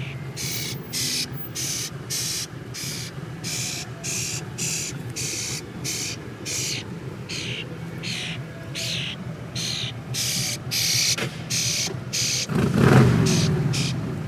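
A small bird giving short, harsh, high begging calls over and over, about two a second, as it demands food. A steady low hum lies under it, and a louder low rumble comes about two seconds before the end.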